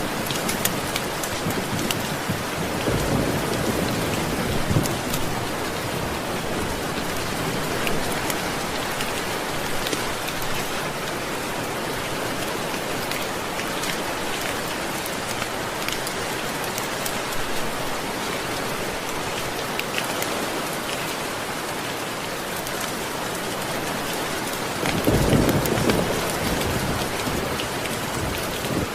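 Steady heavy rain with low rolls of thunder, one about three seconds in and a louder one near the end.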